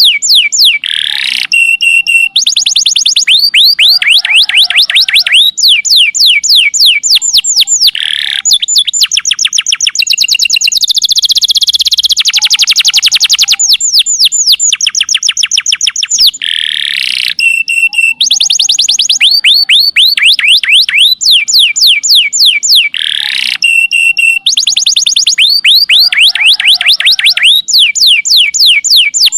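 Domestic canary singing its long rolling song ("nembak panjang"). Trill after trill of fast, high, downward-sweeping notes, changing speed between phrases, with a very rapid buzzing trill held for a few seconds in the middle.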